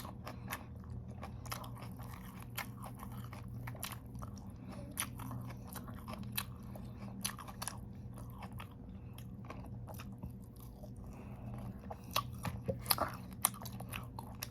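Close-up crunching and chewing of crisp raw vegetables, lettuce and carrots, with irregular sharp crackles that grow louder and denser near the end, over a steady low hum.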